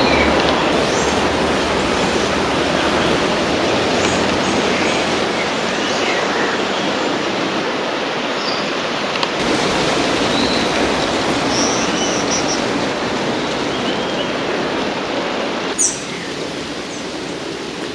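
Outdoor forest ambience: a steady rushing noise with short high chirps scattered through it. There is a brief sharp sound about sixteen seconds in, after which the noise is slightly quieter.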